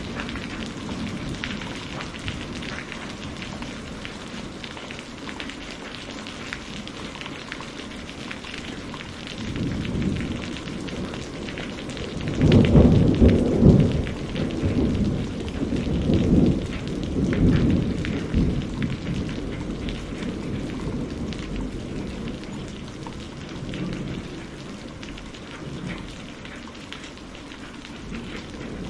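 Steady rain falling, with a rolling thunder rumble that builds about ten seconds in, is loudest a few seconds later, and fades away over the second half.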